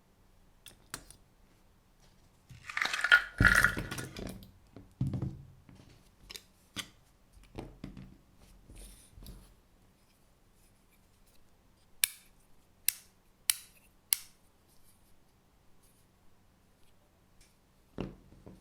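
Small clicks and handling noises: a rustle with knocks about three seconds in, scattered light clicks, then four sharp clicks in quick succession about twelve seconds in, and a single knock near the end.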